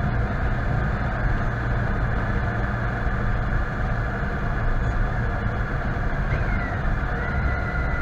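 A vehicle's steady low running rumble. Near the end a high tone slides down in pitch and settles into a steady whine.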